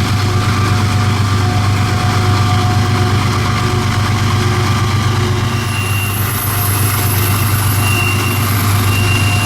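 Steady, loud, low drone of moving vehicles and heavy engines, with faint steady whining tones above it and a thin high whine joining about halfway through.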